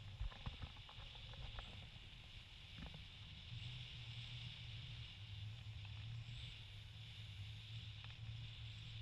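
Tour boat's engine running faintly, a steady low hum under a steady hiss, with a few light knocks in the first couple of seconds.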